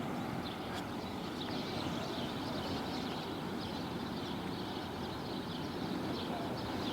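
Steady low rumble of a cargo jet passing high overhead, with small birds chirping faintly throughout.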